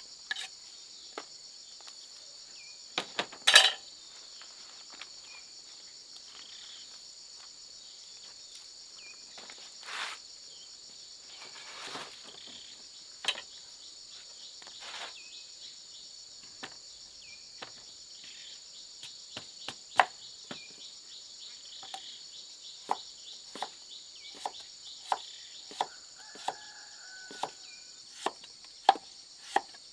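A steady high insect drone goes on throughout, with sharp knocks and clicks over it. The knocks come scattered at first, with a loud cluster a few seconds in, and turn into a regular beat of about one and a half knocks a second in the last third.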